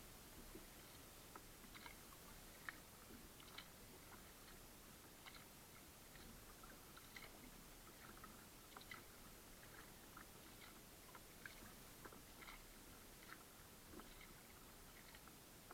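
Near silence, with faint, irregular small clicks and ticks, several a second.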